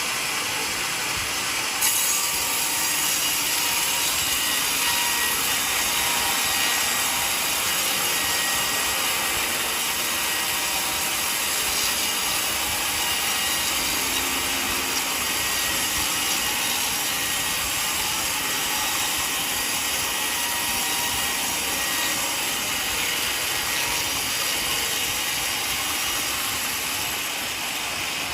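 Sawmill blade cutting lengthwise through a mahogany log: a steady, loud, hissing saw noise that steps up as the blade bites into the wood about two seconds in, easing slightly near the end.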